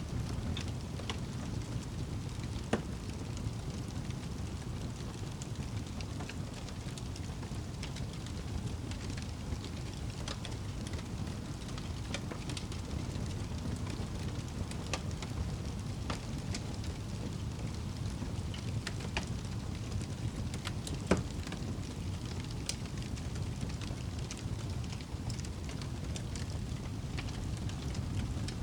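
Fire burning in a fireplace: a steady low rumble of flames with scattered small crackles, and two sharper pops, one about three seconds in and one about twenty-one seconds in.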